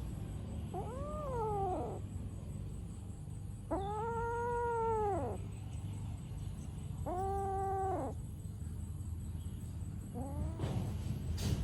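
A cat meowing in four drawn-out calls, the second the longest and the last short, over a steady low hum.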